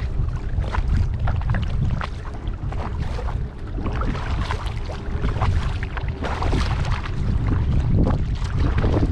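Kayak paddle dipping and splashing in lake water, with small drips and splashes throughout, over a steady low rumble of wind on the microphone.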